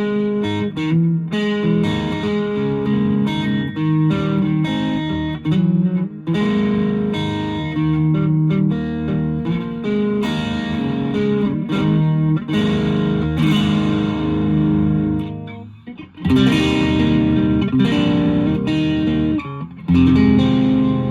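Electric guitar, a Fender Japan Jazzmaster, played through a 1985 Japanese-made Boss DS-1 distortion pedal into an ELK FSB-45 amp: distorted chords are strummed and left to ring. The playing breaks off briefly about three-quarters of the way through, then the chords resume. The sound is as recorded on a smartphone in the room, unprocessed.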